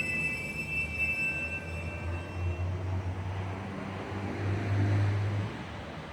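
Train on the rails, its wheel squeal dying away over the first couple of seconds, leaving a low rumble that swells about five seconds in and then falls off.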